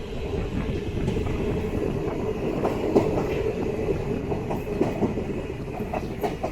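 DEMU train running, heard from on board: a steady rumble of the wheels on the rails, with scattered clicks and clacks over the track.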